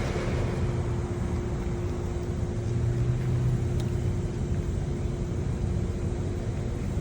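Steady low mechanical rumble with a constant hum, and a deeper hum swelling for about a second and a half around three seconds in.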